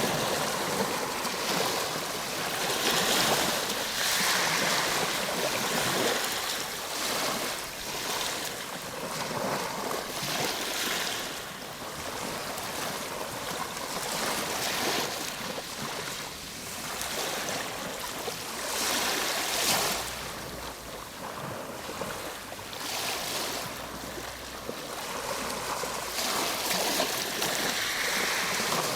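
Ocean waves washing on a shore: a steady hiss of surf that swells and eases every few seconds, a little quieter through the middle.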